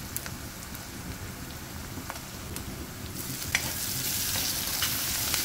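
Chopped onions and curry leaves sizzling in hot oil in a steel kadhai, with scattered clicks of a steel ladle against the pan. About three seconds in the sizzle grows louder as ginger-garlic paste goes into the oil and is stirred.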